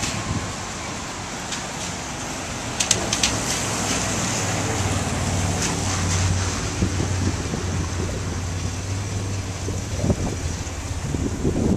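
Hurricane wind noise with a steady low hum that swells in the middle, and a few sharp clicks about three seconds in.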